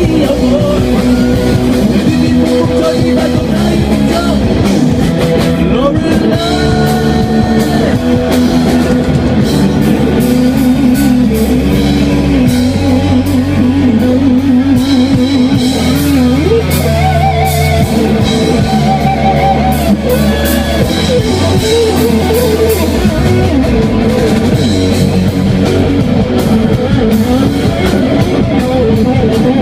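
Rock band playing live: electric guitars and drum kit under a lead melody of long held notes that waver in pitch.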